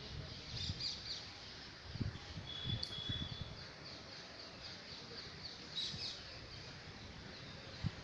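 Small birds chirping and twittering repeatedly, with one brief held high whistle about three seconds in and a few low thumps.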